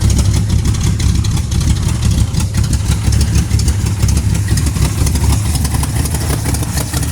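Chevy S-10's 406-cubic-inch stroker V8 idling loud and steady through its dual exhaust, not yet warmed up.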